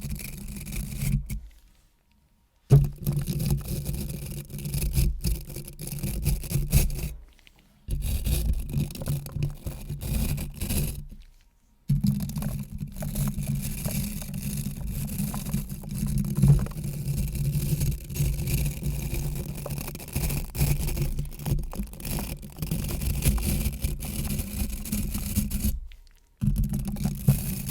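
Close-miked scratching and rubbing, ASMR triggers, in long stretches broken by four short pauses.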